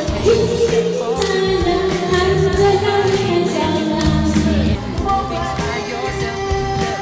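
A song: a voice singing a melody over instrumental accompaniment.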